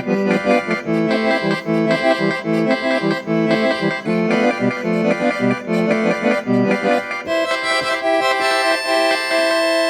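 Accordion playing a quick melody over an on-and-off bass-and-chord accompaniment, then settling on a long held chord for the last few seconds.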